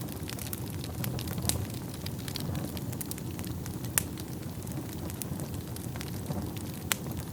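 Wood fire burning in a fireplace: a steady low rumble of flames with irregular sharp crackles and pops, the loudest snaps about a second and a half, four and seven seconds in.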